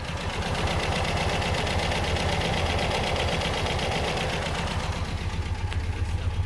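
Fiat 125p 1300's four-cylinder engine running; its sound swells within the first second and holds steady, easing a little near the end.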